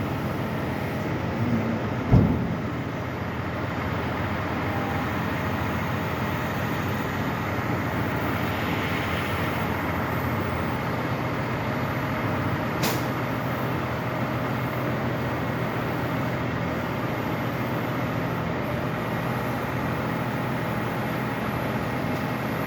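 Steady running noise of a vehicle, with a low thump about two seconds in and a sharp click near the middle.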